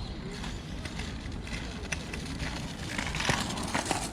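Outdoor ambience on a walk: a steady low rumble with scattered light clicks, and a louder rustling, crackling stretch about three seconds in.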